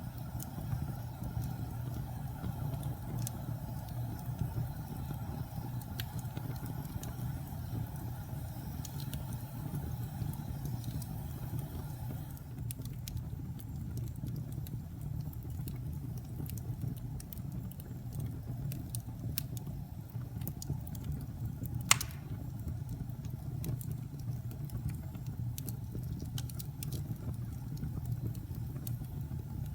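Wood fire burning in a fireplace: a steady low rumble with scattered small crackles and one louder pop about three-quarters of the way in.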